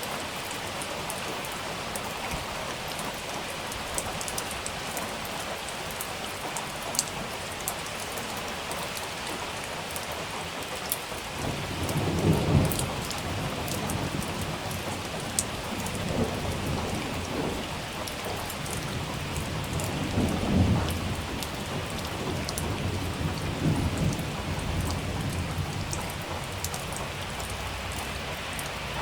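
Steady rain with individual drops ticking close by. About twelve seconds in, low rolls of thunder start and come in several swells, the loudest near the start of the rumbling and again about eight seconds later.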